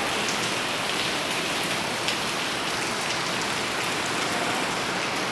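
Heavy rain falling steadily, with a few sharper ticks of single drops hitting nearby.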